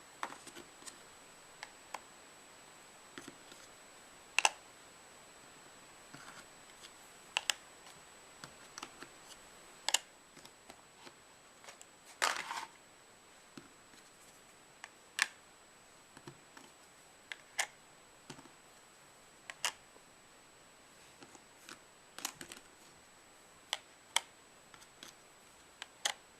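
Magnetic toy pieces being handled and set down onto a play board: a sharp click or clack every second or two, some single and some in quick pairs, with a faint steady high whine underneath.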